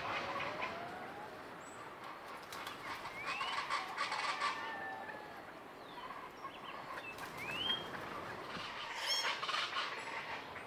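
Common chachalacas calling, with a few short rising whistles over them.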